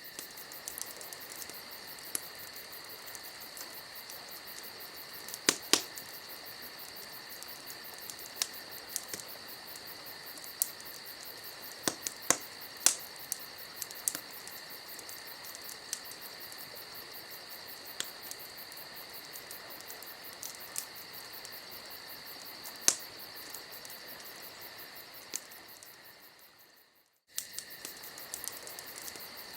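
Campfire ambience: wood crackling with scattered sharp pops over a steady chirring of crickets. It fades out briefly near the end and comes straight back in, as at a loop point.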